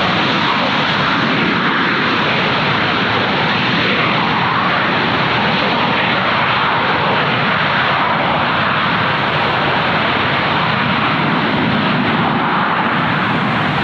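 Airliner jet engines running loud and steady, an even rushing noise that holds level throughout.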